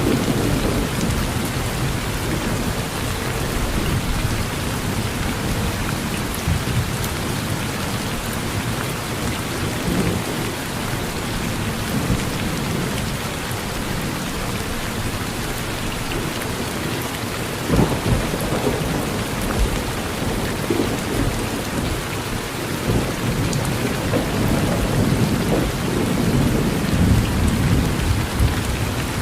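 Steady heavy rain falling on a porch roof, with low thunder rumbling under it, swelling a little past halfway and again near the end.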